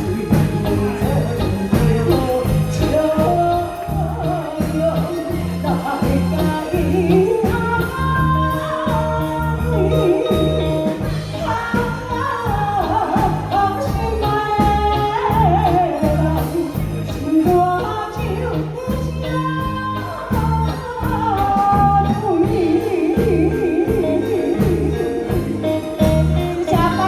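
A woman singing a song over musical accompaniment that has a steady, pulsing bass beat.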